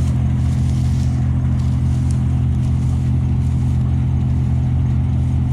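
DON-1500B combine harvester's diesel engine and threshing machinery running steadily under load while picking up windrowed barley, a loud even drone.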